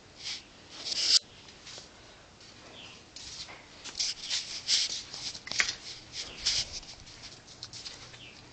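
Irregular scuffing and rustling, with a loud scuff about a second in and a quick run of scuffs from about three to seven seconds in.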